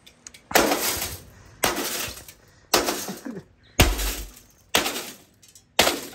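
A microwave oven being smashed: six heavy blows about a second apart, each with glass breaking.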